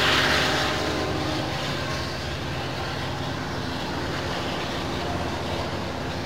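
Diesel-powered Coaster commuter train moving away along the tracks: a steady engine hum and rail noise, loudest at the start and gradually fading.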